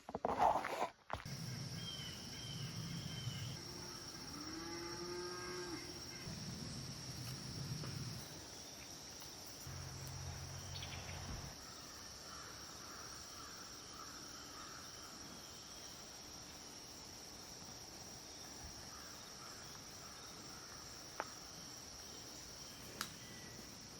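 Crickets and other night insects trilling steadily, with a few low, drawn-out animal calls in the first eight seconds and again briefly around ten seconds in.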